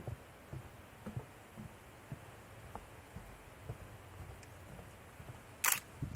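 A DSLR shutter fires once near the end with a sharp mechanical click. Before it, soft low thuds and small ticks come every half second or so.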